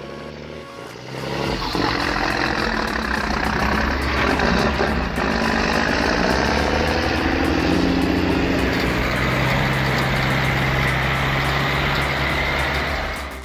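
Heavy machine's engine running steadily, growing louder about a second and a half in and holding there.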